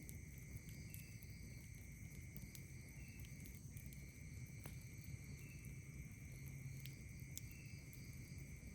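Night insects calling: a steady high trill held throughout, with a short chirp repeating about every two seconds and fainter high buzzing above it. A few faint sharp crackles from a wood campfire sound over a low rumble.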